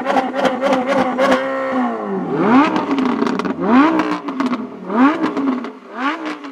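Lamborghini Diablo GT's 6.0-litre V12 held at steady revs with a rapid pulsing, then the revs fall away about two seconds in. Four quick throttle blips follow, each revving up and dropping back.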